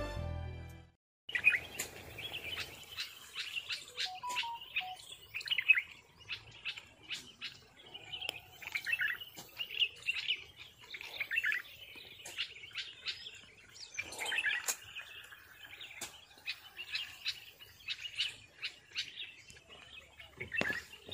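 Background music fades out within the first second. Then small birds chirp and call outdoors for the rest of the time, in many short, high calls, often several a second.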